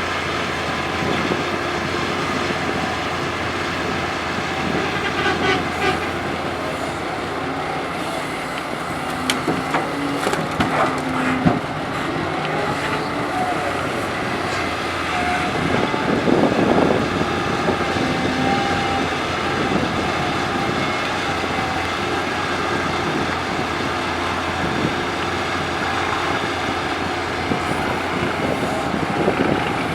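Doosan DX225LCA hydraulic excavator's diesel engine running steadily under working load, with scattered knocks and clatter a few times about a third of the way in as soil is dropped into a dump truck bed.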